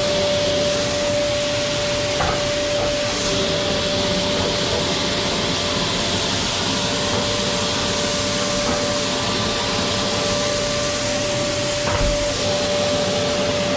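Grain blower running steadily, a rushing air noise with a constant whine, with a couple of faint knocks.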